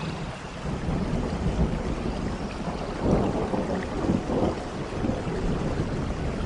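Steady rain falling, with a low rumble of thunder under it that swells about three seconds in.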